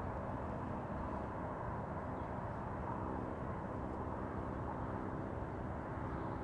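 Steady low outdoor rumble with nothing distinct on top of it.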